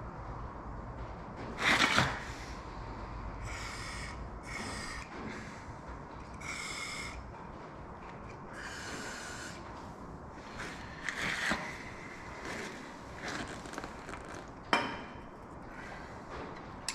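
Short spray bursts from an aerosol can of penetrating oil aimed at stuck engine valves, about half a dozen in a row. There is a sharp metal click near the end.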